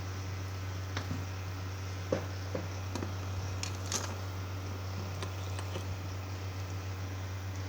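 Steady low hum throughout, with a few scattered light clicks and taps, most of them between about one and six seconds in.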